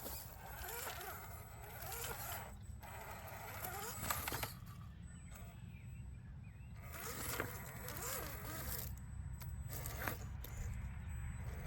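RC scale crawler's small electric motor and gearbox whining in uneven spurts as it drives, the pitch rising and falling with the throttle, with scattered clicks.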